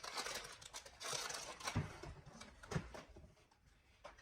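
Rustling and crinkling of plastic candy and chip packaging as snacks are handled and stacked into a mini fridge, with two soft knocks about two and three seconds in.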